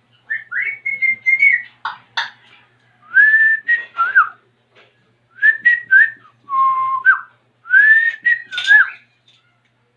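African grey parrot whistling a string of short, clear phrases that mostly glide up and hold, with one lower held note partway through and short clicks between phrases.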